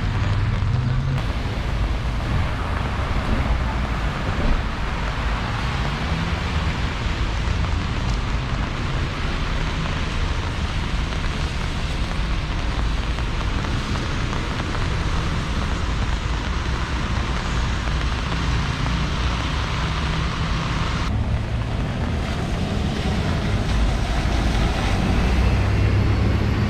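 Steady outdoor noise of rain and city traffic, with wind rumbling on the microphone.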